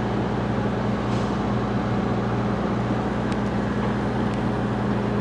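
Steady low engine hum with an unchanging drone, like a diesel running at idle.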